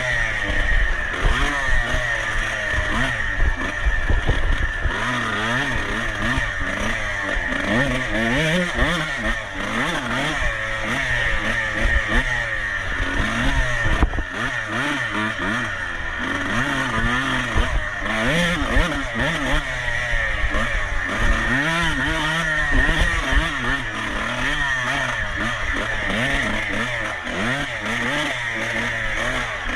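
Dirt bike engine revving up and down over and over at race pace, with no let-up.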